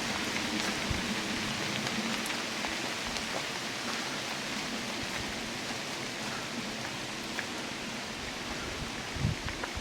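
Steady rain falling in a forest, with scattered individual drips ticking through the hiss. A couple of low thumps come near the end.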